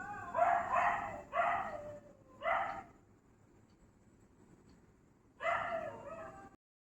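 A dog barking: four short barks in the first three seconds, then a pause and a longer, drawn-out bark near the end.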